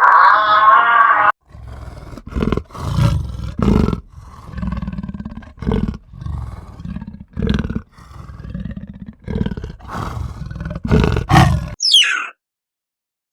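A large animal calling in a series of deep, rough roars and grunts, about a dozen in a row. Before them a higher, drawn-out wavering call cuts off just over a second in, and near the end a brief high chirp glides down.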